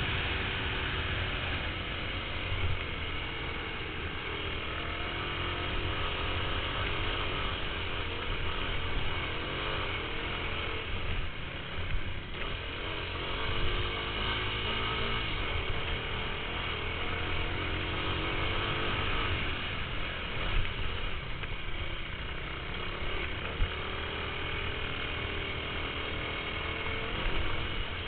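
Motocross dirt-bike engines running and revving, their pitch rising and falling now and then.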